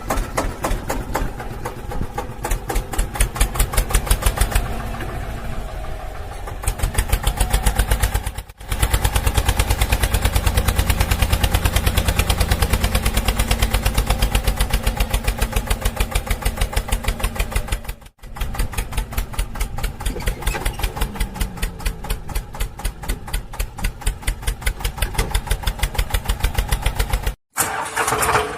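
Small engine running with a rapid, even chugging beat, broken by three abrupt cuts where the sound drops out for an instant and resumes.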